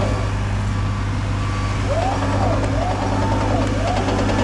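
Truck engine running steadily, joined about two seconds in by a repeating warble tone that rises and falls roughly once a second, typical of a reversing alarm on a truck in reverse.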